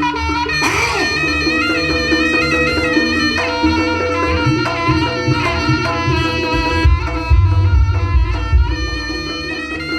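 Javanese jaranan accompaniment music: a reed shawm (slompret) plays a sustained melody over drums and gamelan. The drum beats grow heavier in the second half.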